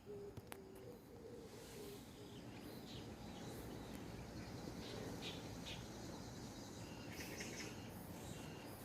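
Birds and grass insects chirping: a dove cooing in short low phrases over the first second and a half, then scattered high, short chirps that cluster about seven seconds in.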